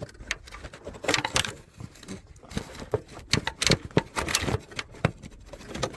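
Hands working a small metal hose clamp and a fuel hose back onto a fitting: irregular small clicks, taps and metallic rattles, with a few knocks against the phone camera.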